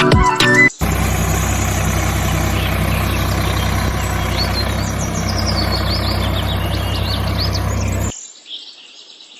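Tractor engine idling steadily, with birds chirping over it. The engine sound stops suddenly near the end, leaving only faint birdsong.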